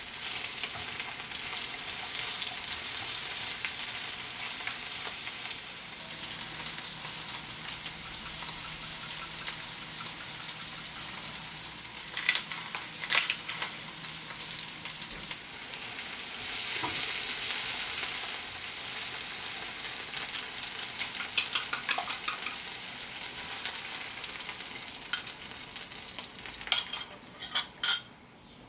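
Food sizzling in a frying pan, a steady hiss, with sharp taps and scrapes of stirring, several in quick succession near the end.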